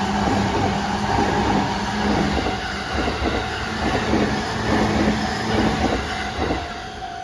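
A Saikyo Line electric train passes close by at a level crossing, its wheels clacking rhythmically over the rail joints, while the crossing's warning bell rings. The train noise fades near the end.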